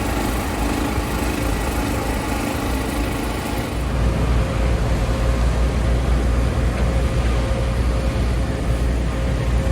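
Steady low engine rumble over a wash of background noise, a little louder from about four seconds in.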